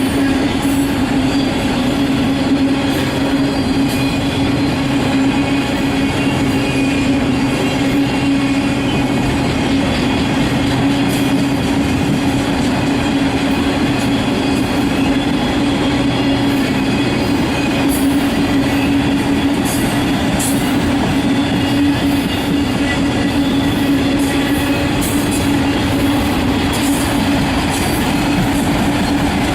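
Freight train cars rolling past at close range: a steady loud rumble of wheels on rail with a sustained low tone and scattered sharp clicks.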